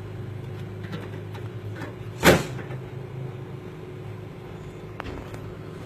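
Steady low hum of an idling vehicle engine, with one sharp knock about two seconds in that is the loudest sound.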